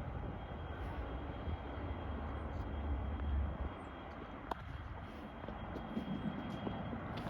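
Low, steady rumble of a vehicle, heaviest in the first half, with a faint steady high tone and a few light clicks.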